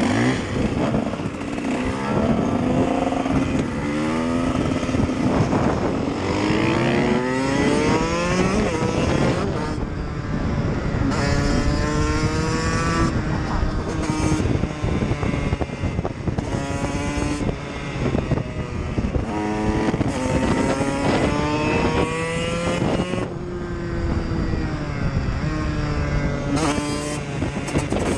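KTM EXC supermoto motorcycle engine accelerating hard through the gears. The pitch climbs and drops back at each shift, again and again.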